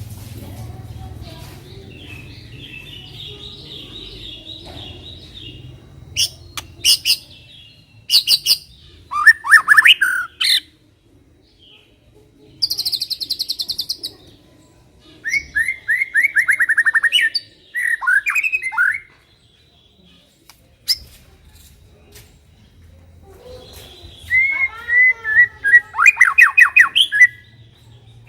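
White-rumped shama (murai batu) singing in loud, separate bursts of song: whistled phrases and fast runs of rapidly repeated notes, with short pauses between them.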